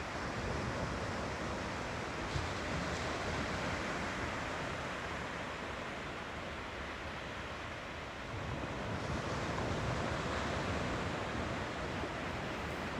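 Ocean surf washing on a beach: a steady hiss of breaking waves that swells and eases, building again about two-thirds of the way through, with some wind on the microphone.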